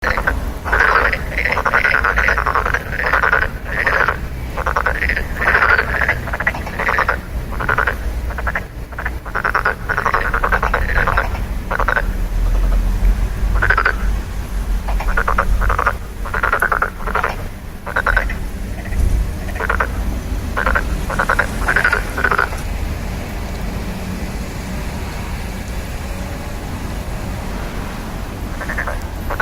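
Frogs calling, many short croaks in quick succession, thinning out past the middle and stopping for several seconds before resuming near the end, over a steady low rumble.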